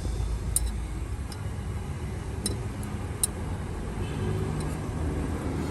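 Steady low workshop rumble with a few light, sharp clicks, about three in all, and a faint hum near the end.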